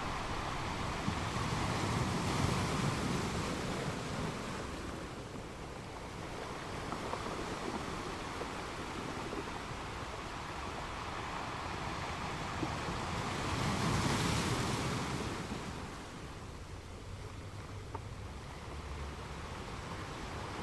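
Ocean waves breaking and washing in, with two swells of surf: one about two seconds in and a louder one about two thirds of the way through, each fading back to a steady wash.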